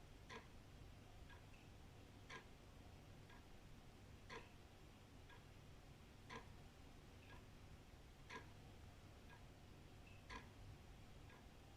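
Old wall clock ticking once a second, a louder tick alternating with a softer tock, over a faint steady low rumble.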